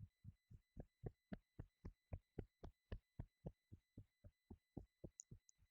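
Hands patting the back of the head in a quick, even rhythm of dull, soft pats, about four a second, tapering off near the end.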